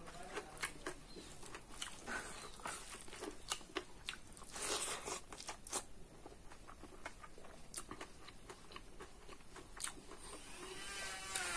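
Close-miked chewing of a mouthful of food: irregular wet clicks and crunches from the mouth. Near the end a wavering pitched tone comes in and grows louder.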